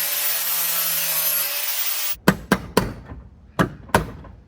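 A power saw cutting into a garage door panel runs steadily, then stops about two seconds in. A string of sharp knocks follows, about two or three a second with a short pause between groups.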